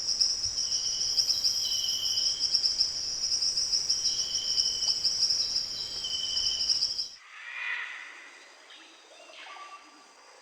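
A steady, rapidly pulsing high insect trill with short whistled bird notes over it. About seven seconds in it cuts off abruptly, and quieter, lower calls from a different recording follow.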